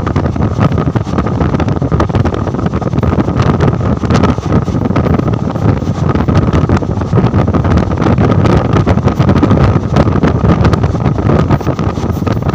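Moving passenger train heard from inside a coach: a steady rumble of wheels on the rails, scattered with many sharp clicks, and wind on the microphone.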